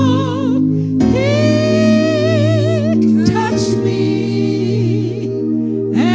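Gospel singing with instrumental backing: a singer holds long notes with vibrato over steady organ-like chords.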